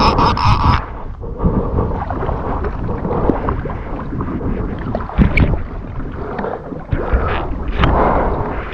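Water slapping and splashing against a kayak's plastic hull on open lake water, with wind buffeting the microphone.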